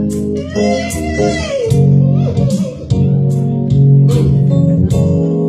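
A band playing an instrumental passage of a slow soul song, led by guitar over bass guitar, with a steady beat.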